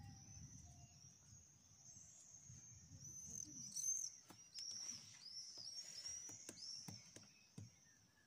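Birds calling and chirping, a dense run of high, hooked whistled notes, over a faint low rumble with a few scattered ticks.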